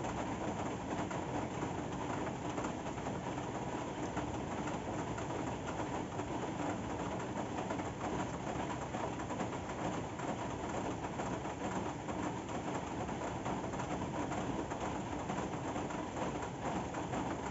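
Steady rain falling: an even hiss of many drops that holds without a break.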